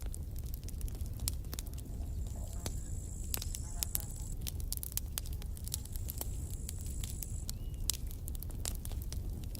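Wood campfire crackling, with irregular sharp pops and snaps over a low steady rumble of the flames. A faint, thin high whine runs through the middle.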